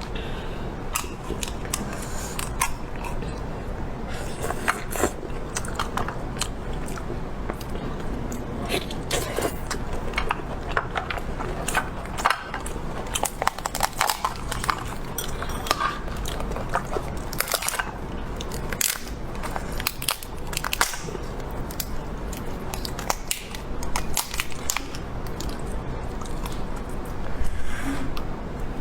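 A person biting and chewing food close to the microphone, with many short, sharp crunching and crackling clicks scattered throughout.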